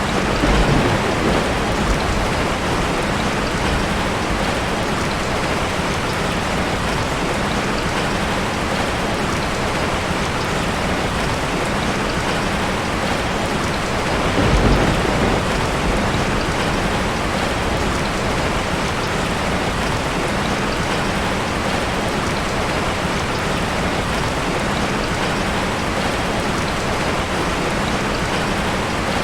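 Heavy rain drumming steadily on a tin roof, with low rumbles of thunder about a second in and again about halfway through.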